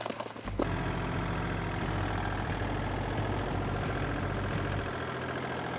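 An engine runs steadily at an even speed, starting about half a second in.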